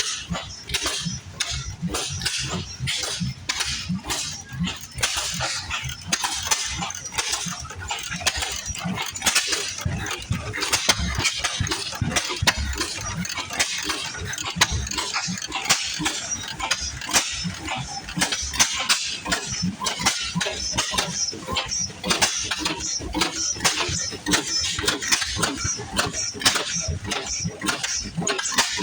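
Old engines running, a continuous mechanical clatter of rapid, irregular clicks and knocks.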